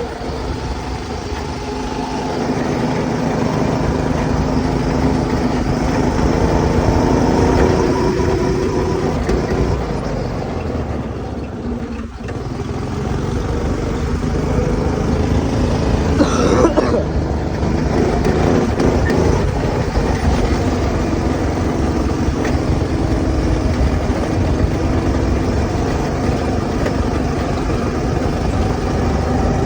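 Go-kart's small engine, fitted with a 30 mm carburetor, running and revving. Its pitch rises and falls with the throttle, building over the first few seconds and easing off briefly about twelve seconds in.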